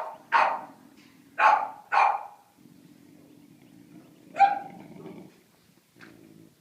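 A dog barking: four quick barks in the first two seconds, then a single bark about four and a half seconds in, with a low steady noise in between.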